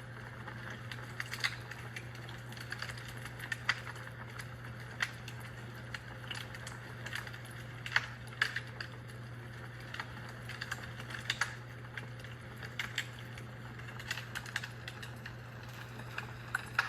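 Fire in a fireplace crackling: irregular sharp pops and snaps, some louder than others, over a steady low hum.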